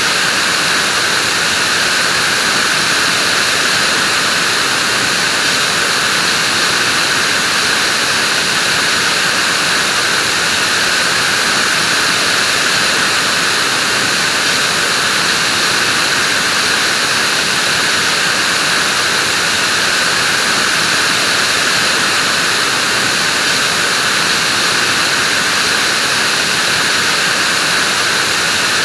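Vacuum cleaner running continuously: a loud, unchanging hiss with a higher-pitched whine in it.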